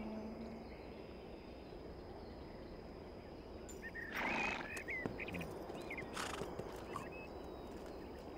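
A low musical drone fades out in the first second, leaving quiet outdoor ambience with birds chirping. A short rush of noise comes about four seconds in and a smaller one about six seconds in.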